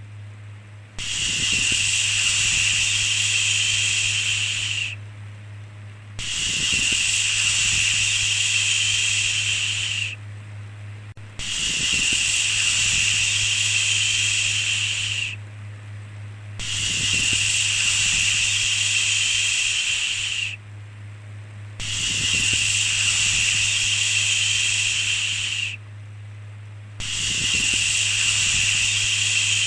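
A repeated 'shhh' shushing sound, each shush lasting about four seconds with a short pause between, about six in all. A steady low hum runs underneath.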